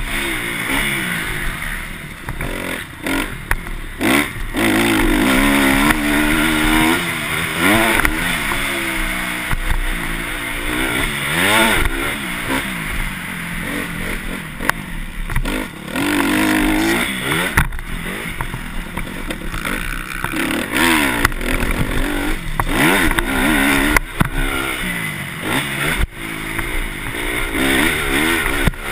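Motocross dirt bike engines revving hard, the pitch rising and falling again and again as the riders open and close the throttle and shift, with a few sharp knocks along the way.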